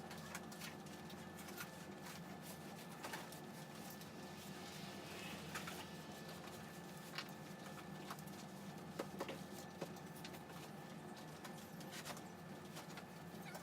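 Faint, scattered light taps and rubbing from hand-cleaning a T-top storage bag with spray cleaner and a microfiber towel, over a steady background hum.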